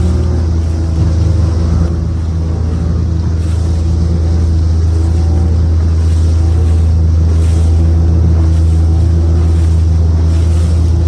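Motorboat engine running steadily at speed, a loud low drone, with rushing wind and water noise over it.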